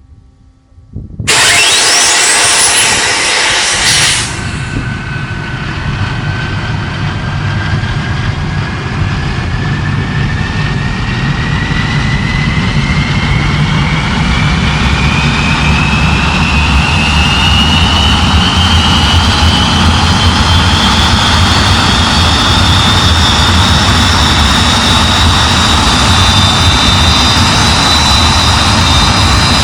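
Hawker Hunter jet engine's explosive charge start: about a second in, a sudden loud blast and rush as the starter fires, lasting about three seconds. The jet engine then spools up with a whine that rises steadily and levels off into a loud, steady run.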